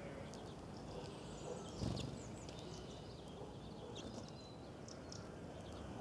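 Small birds chirping in short, scattered high calls over a steady background hiss, with one low dull thump about two seconds in.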